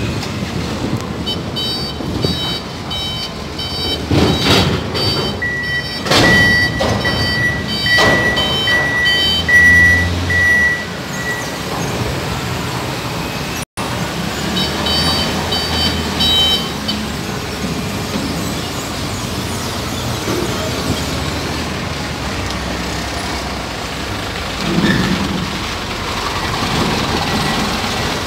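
Heavy container-handling vehicles running, with repeated reversing-alarm beeping and loud metallic clanks about four, six and eight seconds in. The beeping comes back briefly about halfway through, after a short break in the sound.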